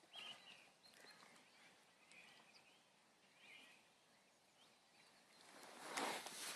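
Near silence: quiet outdoor ambience with faint bird calls, and a short faint noise about six seconds in.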